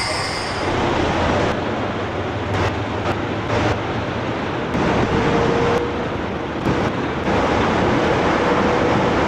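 Diakopto–Kalavryta rack-railway train running, heard from inside at an open front window: a steady rumble and rush of the moving train. A faint thin squeal shows briefly about five seconds in and again near the end.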